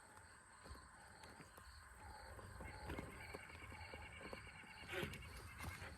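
Redcat Vertex 6 1/6-scale RC rock crawler creeping over rocks: faint, scattered knocks and scrapes of its tires and chassis on rock, over a thin, steady high whine.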